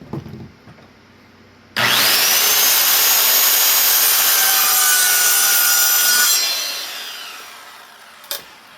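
Electric saw starting up with a quickly rising whine and cutting through wood for about four and a half seconds, then winding down after release; the blade is nearly worn out. A single sharp knock near the end.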